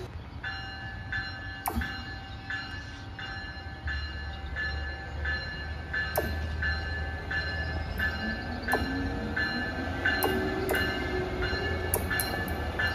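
An Amtrak ACS-64 electric locomotive approaches with a growing low rumble and a rising whine in the second half. Over it a bell rings steadily, about one and a half strikes a second.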